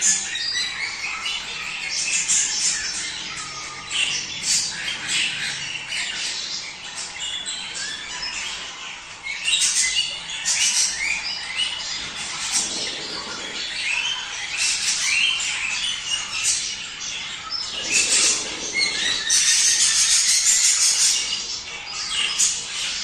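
A flock of budgerigars in courtship chatter: continuous warbling with many overlapping chirps and squawks. A louder, harsh screech stands out for a second or two near the end.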